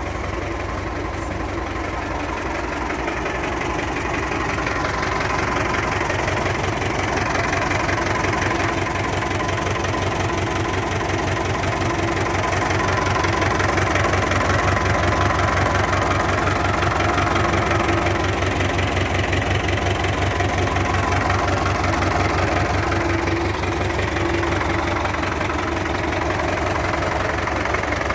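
MTZ (Belarus) tractor's diesel engine idling, with a steady rhythmic knocking that the owner puts down to the gearbox.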